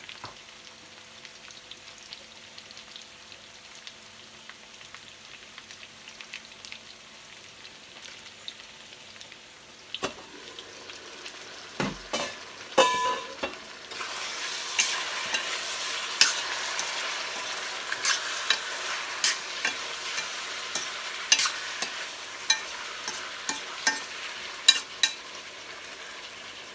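Chicken kaldereta sizzling in its pan while a spoon stirs it, clicking and scraping against the pan. It is quiet at first; a few sharp clanks come a little before halfway, then the sizzle grows louder, with frequent utensil clicks.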